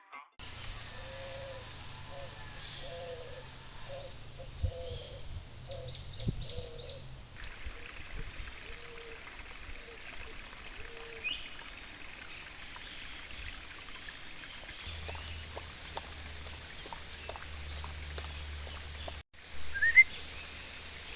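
A small stream trickling and running over stones, with birds chirping and calling, a run of short repeated notes in the first few seconds.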